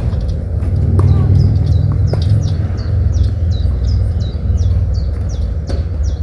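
A small bird repeating a short chirp about two to three times a second, over a steady low rumble, with a few sharp knocks in the first couple of seconds.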